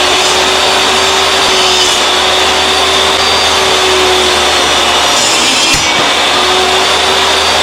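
Table saw running steadily at full speed while cutting boards, with one sharp knock about six seconds in.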